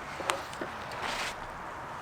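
A sharp knock about a third of a second in, a few faint ticks, and a brief rustle around a second in, over a steady background hiss.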